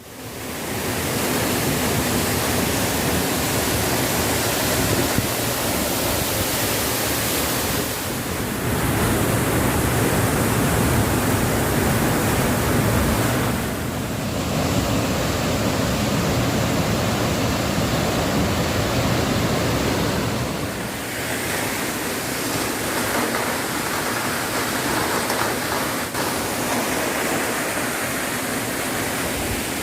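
Waterfall rushing, a steady dense roar of falling water whose character shifts abruptly about 8, 14 and 21 seconds in.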